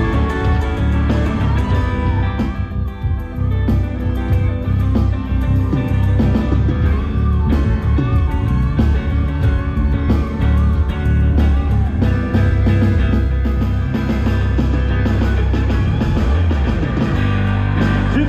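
Live rock band playing an instrumental section: a guitar plays a lead line with bent notes over bass and drums.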